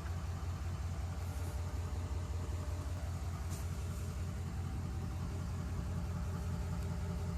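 GMC pickup truck's engine running steadily, a low even hum with a fine regular pulse.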